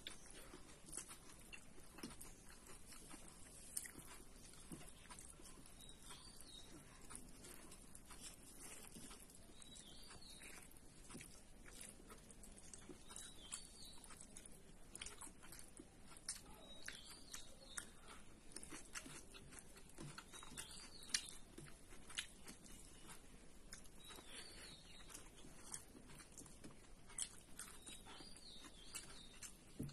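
Faint chewing and biting with small wet mouth clicks, a person eating close to the microphone.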